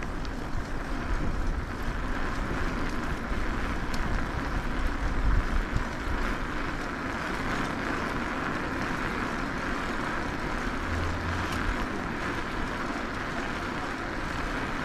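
Steady rushing and rumbling of wind and riding noise on an action camera's microphone while riding an e-bike.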